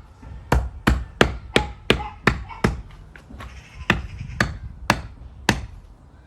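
Hand tamper (handheld whacker) pounding down stones and hardcore sticking up in a drain trench base: about a dozen sharp whacks, roughly three a second at first, then spacing out.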